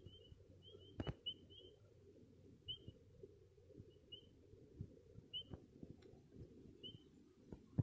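Faint short bird chirps, several in quick succession at first and then one every second or so, with a few soft clicks; a sharper click about a second in.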